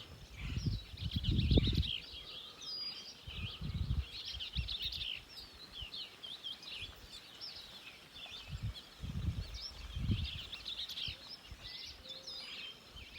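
Many small birds chirping and twittering throughout, with a few low rumbles underneath.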